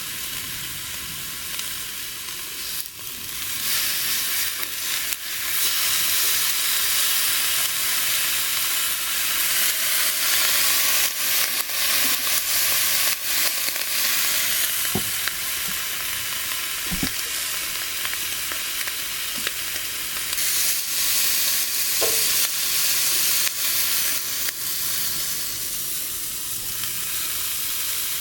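Food sizzling and spitting in a hot pan, a steady frying hiss with scattered small pops that gets louder about four seconds in.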